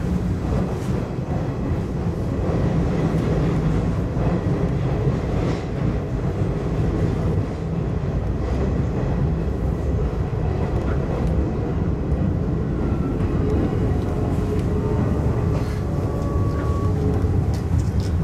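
Izuhakone Railway 5000 series electric train running, with the steady rumble of wheels on rail heard from the driver's cab. In the last few seconds, faint thin whines rise over the rumble as it slows into the station.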